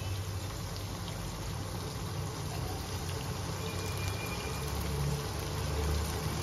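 Potatoes and peas frying in oily masala in a wok, sizzling and bubbling steadily, over a steady low hum.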